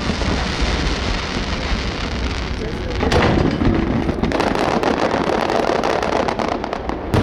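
Fireworks display: a continuous rumble of bursts with crackling that thickens about three seconds in.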